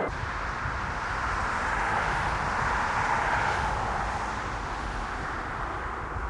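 Jet airliner passing, its engine noise swelling to a peak two to three seconds in and then easing off, with wind rumbling on the microphone.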